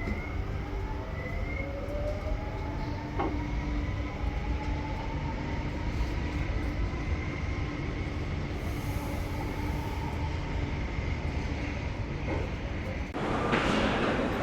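Electric passenger train accelerating, its traction motors giving a whine of several tones that slowly rise in pitch over a steady rail rumble. A sudden louder rush of noise cuts in near the end.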